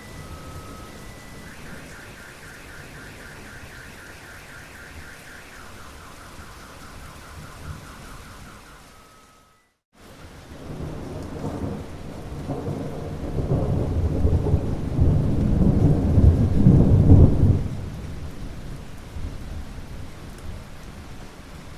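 Steady rain with a long rolling rumble of thunder that builds, peaks, then dies away in the second half. Thin, high pulsing tones sit over the rain in the first half, and the sound cuts out abruptly for a moment just before the thunder starts.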